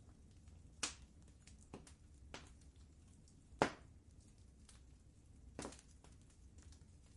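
Wood fire crackling in a fireplace: scattered sharp pops and snaps, the loudest about three and a half seconds in, over a low steady rumble.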